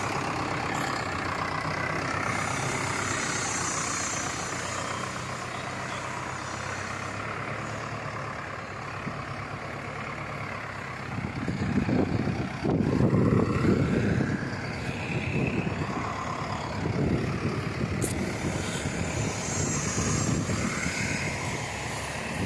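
Diesel engine of a Preet Hornett backhoe loader running steadily. From about halfway it gets louder in uneven surges as it is put to work.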